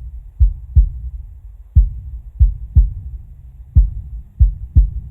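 Deep, low booming beats in a slow repeating pattern: two quick beats, then a single one, the cycle repeating about every two seconds, like a heartbeat-style pulse.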